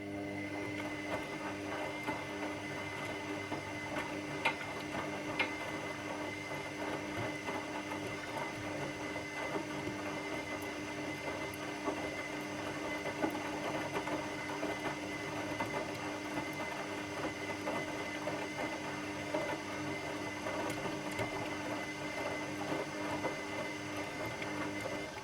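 Washing machine motor running steadily, a mechanical whir with a few light clicks, then stopping abruptly near the end.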